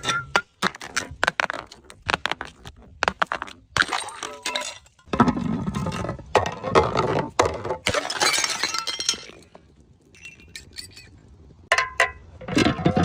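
Glass bottles breaking: repeated clinks and sharp shattering impacts with short ringing tones, and several longer crunching stretches of broken glass. There is a quieter lull about ten seconds in before the breaking resumes.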